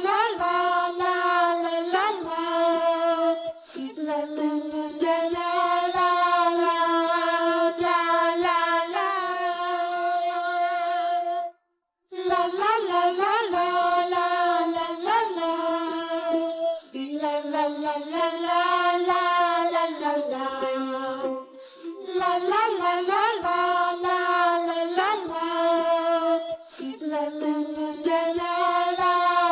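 Background music: a high, child-like voice singing a melody with held notes. It breaks off briefly a little before halfway, then carries on.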